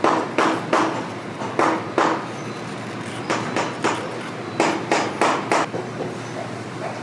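A cobbler's hammer striking repeatedly during boot repair: about a dozen sharp blows in uneven groups of two to four, each with a short ring. A steady low hum runs underneath.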